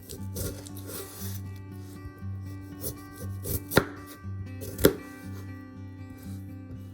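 A knife chopping on a cutting board in irregular knocks, two of them sharper and louder about four and five seconds in, over background music.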